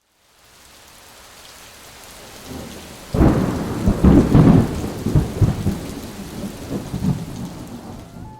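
Thunderstorm: steady rain hiss fading in, then a loud clap of thunder about three seconds in that rolls on in several rumbles and slowly dies away.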